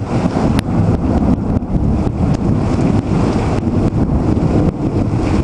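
Thunderstorm wind and heavy rain, with the wind buffeting the microphone in a steady, loud low rumble.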